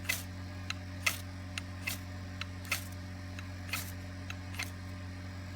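Ferrocerium rod struck about ten times in quick, irregular succession, each stroke a short sharp scrape, throwing sparks onto newspaper tinder that has not caught. A steady low hum runs underneath.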